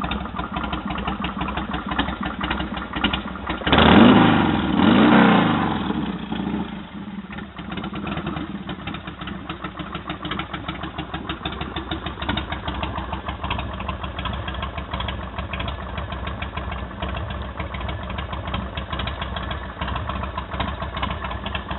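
1998 Titan Roadrunner's 107-cubic-inch S&S Super V-twin idling through its Thunder Header exhaust. It is revved twice about four seconds in, the pitch rising and falling, then settles back to idle.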